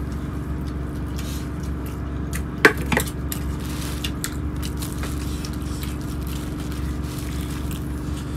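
Steady low rumble and hum of a train carriage on the move. About two and a half seconds in, a serving spoon knocks twice in quick succession against a steel plate.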